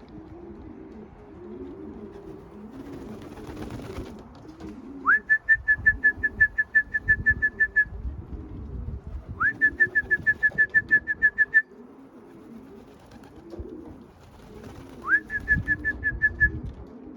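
Racing pigeons cooing steadily in the loft, broken three times by bursts of rapid electronic beeping, about seven beeps a second after a short rising chirp: the loft's electronic race clock registering a returning racing pigeon. A brief rustle of wings or movement comes about three seconds in.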